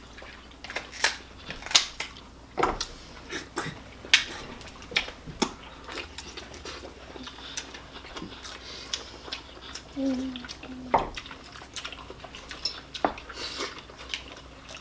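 Irregular clicks, clinks and knocks of cutlery and dishes at a table while a seafood boil is eaten.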